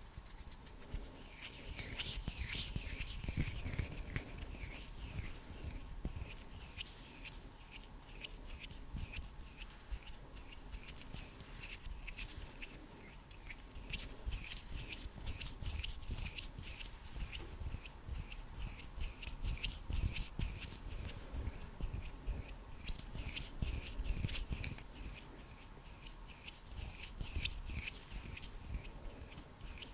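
Hands rubbing and fluttering close to a microphone, a quick run of crisp, dry strokes with no pause.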